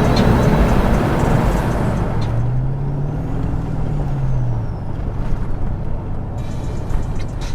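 Motor vehicle running, a heavy low rumble with one rise and fall in engine pitch in the middle, as if revved up and eased back off.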